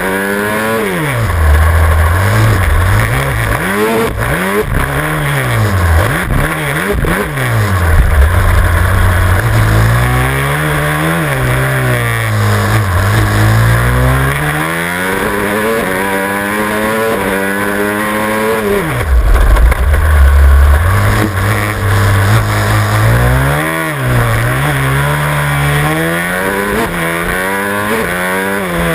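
Supermoto motorcycle engine at racing speed, revving up hard on the straights and dropping off into the corners over and over, with the pitch rising and falling in quick sweeps. Heard close up from the tail of the bike.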